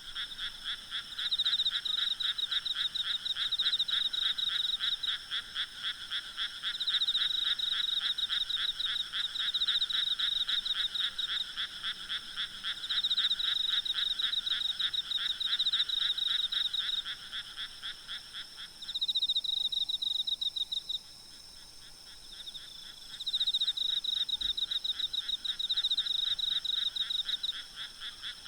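Night chorus of frogs calling in fast, rattling pulse trains that come in bouts, with insects trilling steadily underneath. The lower-pitched caller stops about two-thirds of the way through while the higher ones keep going.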